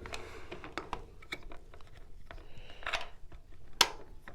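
Scattered clicks, knocks and light rustling of the panel heater's feet and wing nuts being handled and refitted, with one sharper knock near the end.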